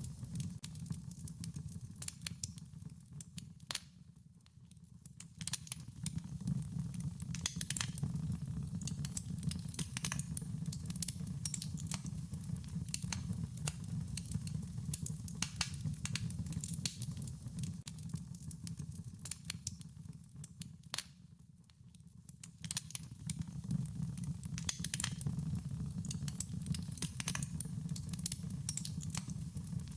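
Wood fire crackling, with frequent irregular sharp pops over a low steady rumble of the flames. It turns briefly quieter twice, about four seconds in and again past twenty seconds.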